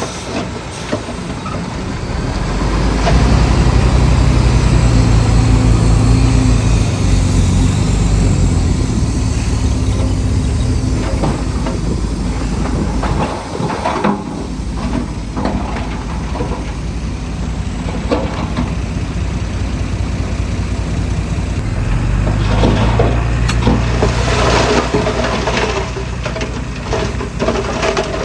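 Crawler bulldozer's diesel engine working under load, swelling a few seconds in and again past the middle, with the tracks and blade clanking and clattering in bursts.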